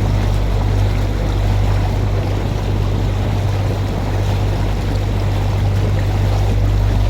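Tour boat's motor running steadily, heard as a low hum over a wash of water and wind noise.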